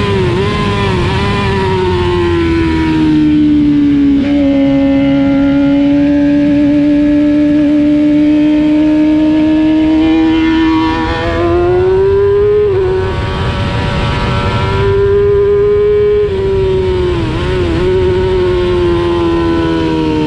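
Racing motorcycle engine heard onboard at high revs, its pitch sliding down and up as the rider shifts gears and brakes, with several sudden breaks in the note, over wind rush.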